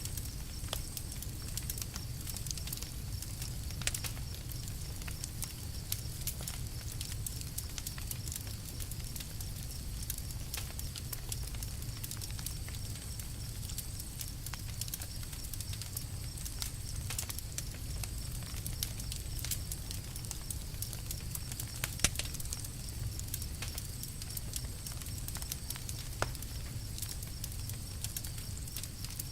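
Campfire burning with irregular crackles and small pops over a steady low rumble, one sharper pop about two-thirds of the way through.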